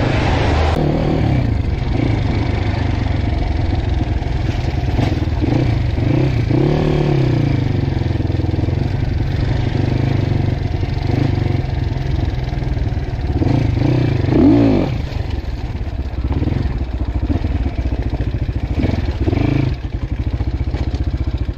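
Dirt bike engine running under load while being ridden, its pitch rising and falling as the throttle opens and closes, with a sharp rev about a third of the way in and another about two thirds in.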